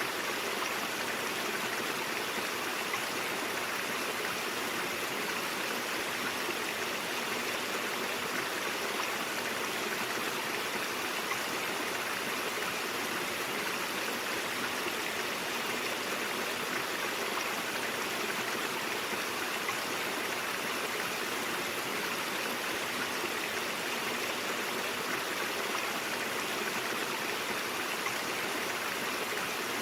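Brook water flowing steadily over rocks: an even, continuous rushing and babbling.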